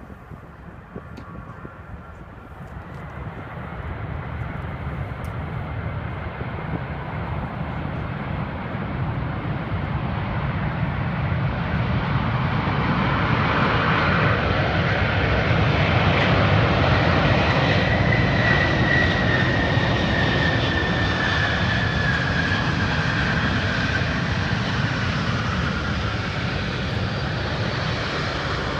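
Air Force One, a Boeing 747, coming in to land: its four jet engines grow steadily louder over about fifteen seconds and then ease a little, with a high whine that slides down in pitch around the loudest point as the plane passes.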